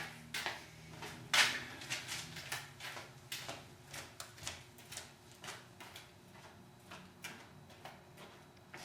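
Irregular clicks and knocks of gear being handled, with one sharper knock about a second and a half in and lighter taps after it, over a faint steady low hum.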